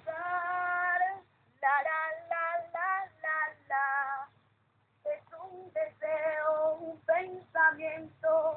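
Voices singing a song, a woman's and children's, in separate sung notes, the first held for about a second, with a short break about four and a half seconds in.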